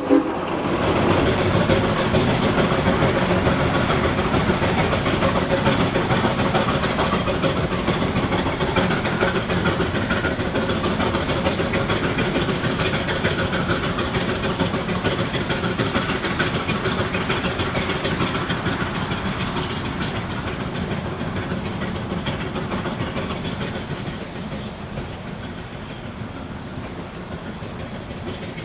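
Geared steam locomotive running on the rails, a steady mix of wheel clatter and steam that slowly fades over the stretch. Its whistle cuts off just as the stretch begins.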